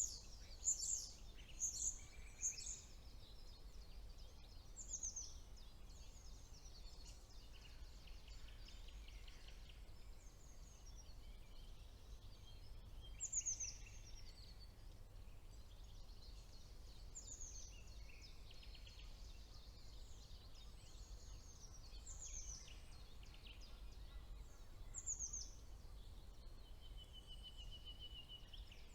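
Several songbirds singing: short, high, quick falling phrases repeated every few seconds, the loudest near the start and about halfway through, over a faint steady low rumble.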